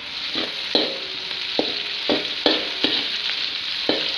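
Sliced onions with whole cardamom, cinnamon and bay leaves frying in hot oil in a metal pot, sizzling steadily. A metal spatula stirs and scrapes the pot in repeated strokes, each one ringing briefly off the metal.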